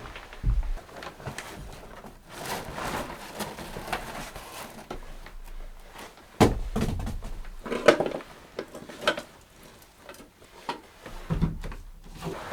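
Irregular knocks and thumps with rustling in between, as of objects being handled and set down; the sharpest knocks come about halfway through.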